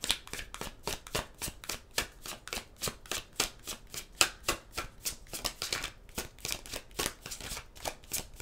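A tarot deck being shuffled by hand: a quick, steady run of card clicks and flicks, about five or six a second.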